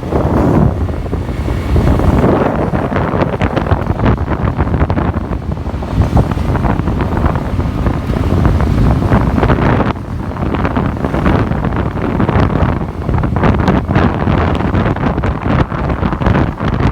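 Wind buffeting the microphone of a passenger on a moving motorcycle taxi, loud and continuous, with road and vehicle noise underneath.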